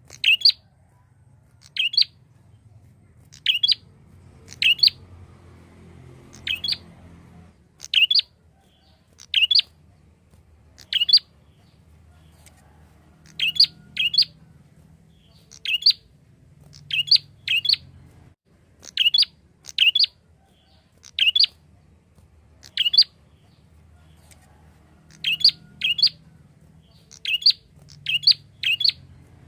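Prinia (prenjak) giving short, sharp chirping calls, singly or in quick pairs, about one every second or two, over a faint low background hum.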